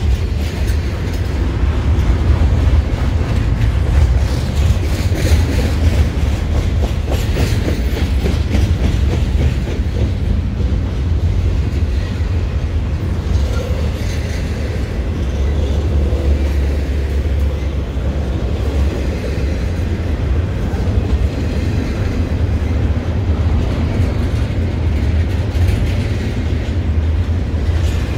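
CN double-stack container freight train rolling past. It makes a loud, steady low rumble, with the clickety-clack of wheels going over the rail joints.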